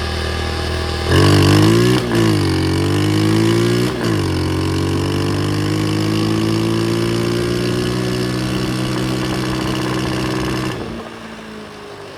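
Pit bike engine running, revved sharply about a second in and blipped twice more, then held at a fast idle whose pitch slowly creeps up. It is still on choke. The engine note drops away near the end.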